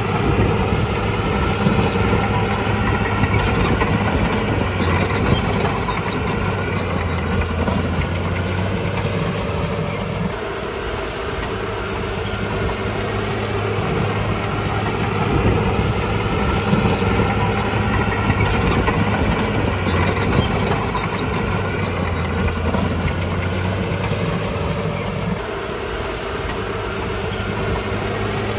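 Diesel engine of heavy earthmoving machinery running steadily, easing off briefly about ten seconds in and again near the end, with a few short metallic clanks.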